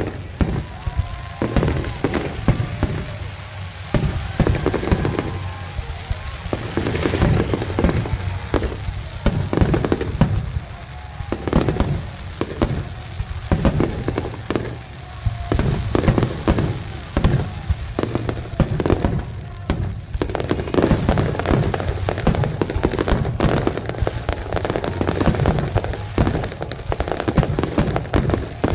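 Fireworks display: aerial shells bursting one after another in rapid, overlapping booms and crackles.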